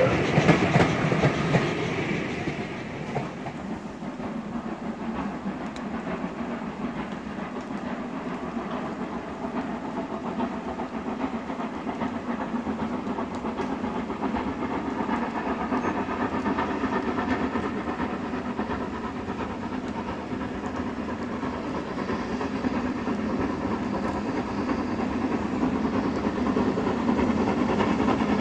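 Railway coaches clattering past over the rail joints for the first few seconds. The sound then drops to a quieter, steady distant train noise that slowly grows louder near the end.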